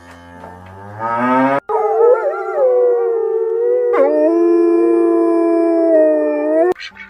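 A dog-family animal howling: one long, held howl whose pitch wavers and then settles, after a shorter rising call that cuts off abruptly about a second and a half in.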